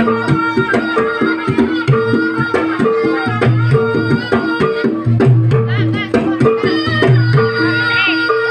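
Javanese jaranan trance music played live: hand drums beating a busy rhythm under short repeated gong-chime notes, with a wavering, reedy slompret melody above.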